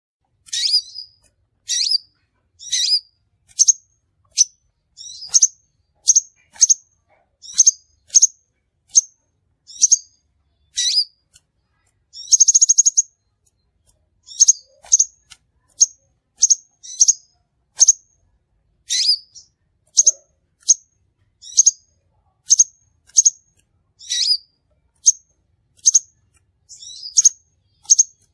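Crimson sunbird giving short, sharp, high-pitched calls over and over, about one or two a second, with a quick rapid trill about halfway through.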